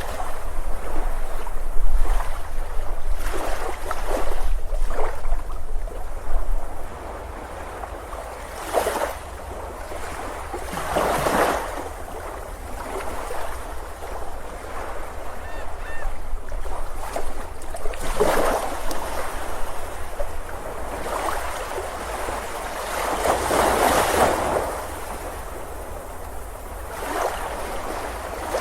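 Sea waves breaking and washing up on a beach, swelling and ebbing every few seconds. A low rumble runs under the surf for the first several seconds, then drops away.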